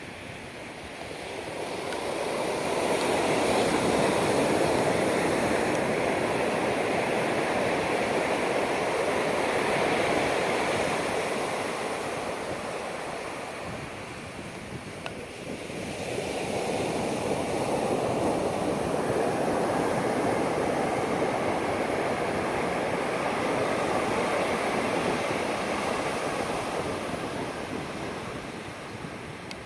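Pacific Ocean waves breaking and washing up a sandy beach, two long surges, each swelling and then fading away over about ten seconds.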